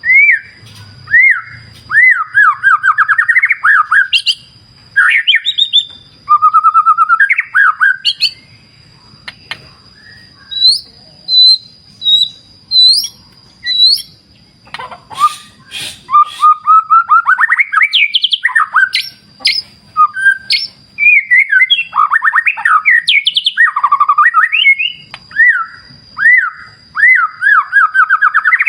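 White-rumped shama (murai batu) singing loudly and continuously: varied phrases of rapid repeated notes, trills and rising whistles, with a short pause about a third of the way in. A steady high-pitched tone runs underneath.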